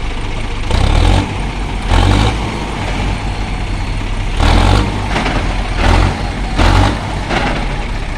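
Diesel engine of heavy earthmoving machinery running steadily, with about five short surges in revs under load.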